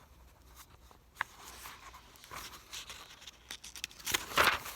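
Picture-book pages being handled and turned: a sharp click about a second in, soft paper rustling, and a louder rustle near the end.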